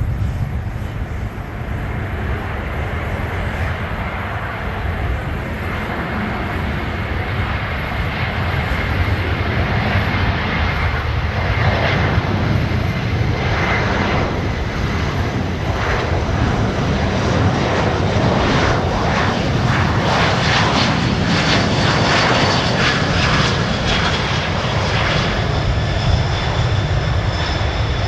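Boeing C-17 Globemaster III's four Pratt & Whitney F117 turbofan engines running: a steady jet rumble that grows louder, with a high whine coming in over the second half.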